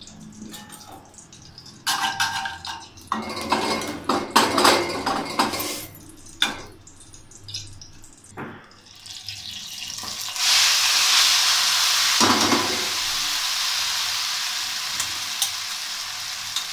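A metal slotted spoon scraping and clinking in an aluminium karahi as cardamom seeds are stirred in desi ghee. About ten seconds in, a sudden loud, steady sizzle starts as boiled vermicelli hits the hot ghee, with a thump of the pan shortly after.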